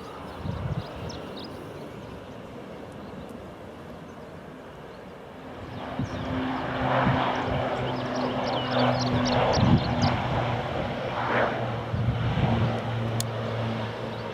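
Aircraft engines running with a steady low drone. They grow louder about five or six seconds in.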